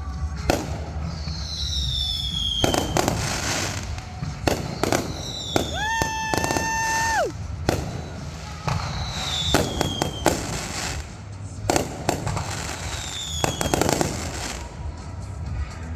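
Fireworks going off: a dense series of bangs and crackles, with several whistles falling in pitch. About six seconds in, a steady whistle holds for about a second before it drops away.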